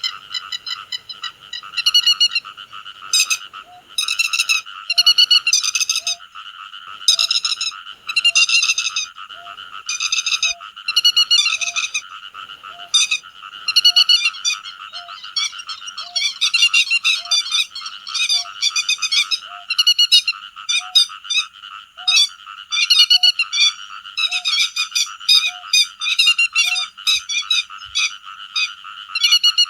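Grey-headed lapwing calling: sharp, loud calls repeated about once a second over a steady background chorus. A faint low note repeats about once a second through most of it.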